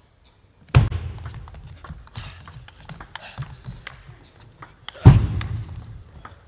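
Arena crowd at a table tennis match: hushed at first, then about a second in a sudden loud outburst mixed with sharp taps and claps that dies away, followed by two more outbursts near the end.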